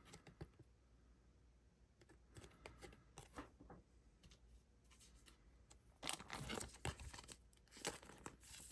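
Faint rustling and sliding of trading cards being handled: a few light clicks at first, then a denser stretch of rustling from about six seconds in.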